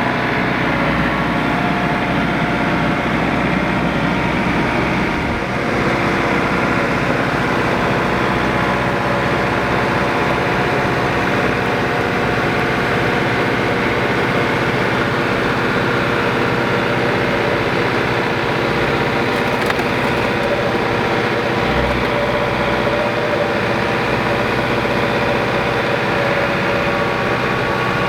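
Engine running steadily at one constant speed.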